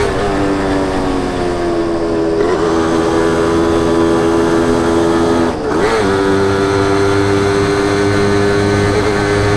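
Suzuki WOLF125 two-stroke motorcycle exhaust under way, a steady engine note. The pitch drops near the start and, after a brief dip in level about five and a half seconds in, holds steady at a higher pitch.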